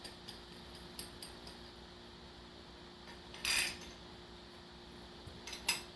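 Metal parts and hand tools being handled: scattered light clinks and taps, a louder short clatter about three and a half seconds in, and two sharp clinks near the end.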